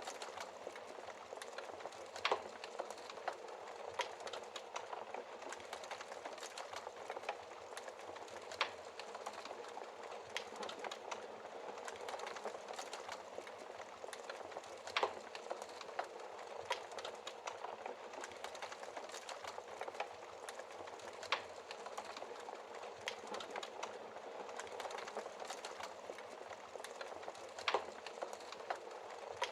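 Wood fire burning in a fireplace: a steady crackle of small snaps with a louder pop every few seconds.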